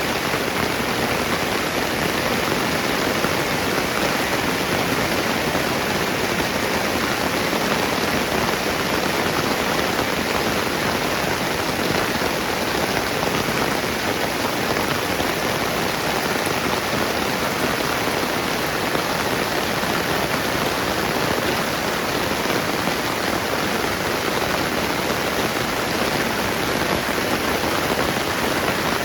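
Steady rain falling on the ground and surfaces, an even, unbroken hiss.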